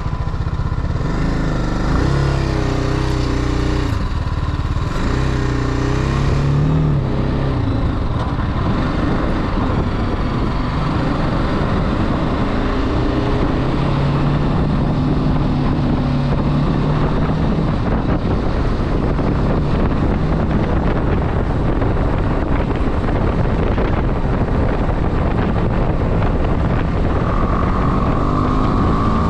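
Motorcycle engine running while riding, its pitch rising and falling through the first few seconds and then holding steady for a while, with a constant rush of wind and road noise over it.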